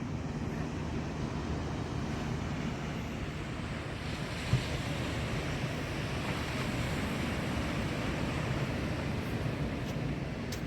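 Ocean surf breaking and washing up a sandy beach, the wash swelling from about four seconds in, with a low wind rumble on the microphone. A brief thump about four and a half seconds in.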